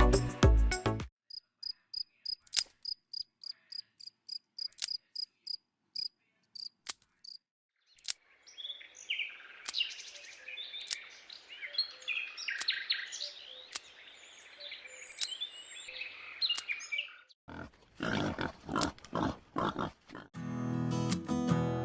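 Animal calls: a run of short, evenly spaced high chirps, then a dense stretch of chattering chirps, between short bits of music.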